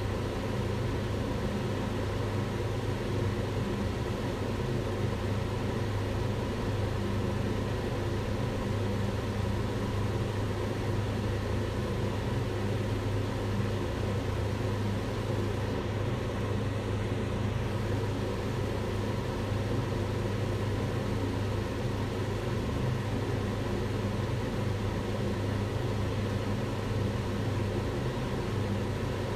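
Kitchen range hood fan running steadily: a constant low hum with an even rush of air over it.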